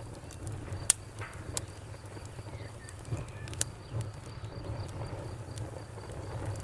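Wood fire crackling, with a few sharp pops standing out, over a low rumble, while a cricket chirps steadily in the background.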